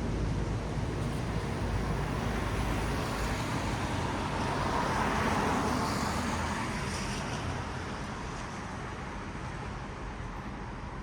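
Traffic on a wet city road: tyres hissing on the wet asphalt, with one vehicle swelling past about halfway through and then fading away.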